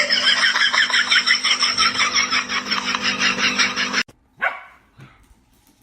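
A dog yapping rapidly and evenly, about seven yaps a second, over a steady low hum. Both cut off abruptly about four seconds in, and a brief fainter sound follows.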